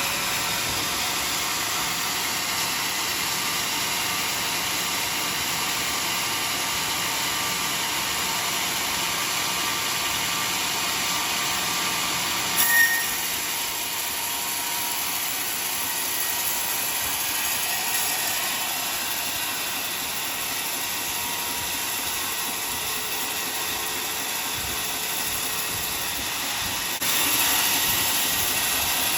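Sawmill saw and machinery running steadily as a log is sawn. There is a brief sharp high-pitched sound about halfway through, and the noise steps up louder near the end.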